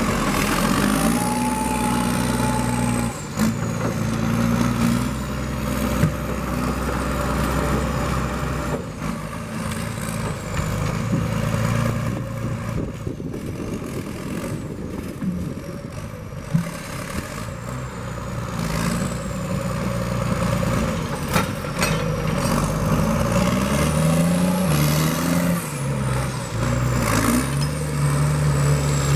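Heavy diesel engine of logging equipment working, its revs rising and falling repeatedly, with a few sharp metallic knocks.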